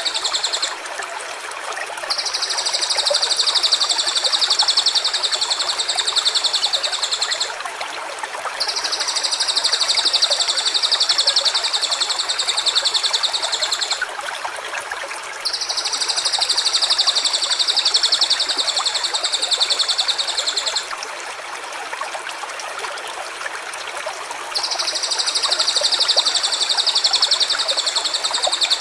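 Stream running steadily, with a high, even buzzing trill about five seconds long repeated four times, each a second or two apart.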